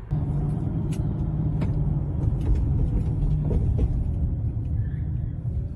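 A car on the road: steady, dense engine and road rumble, with a few short sharp ticks about a second in and again a little later.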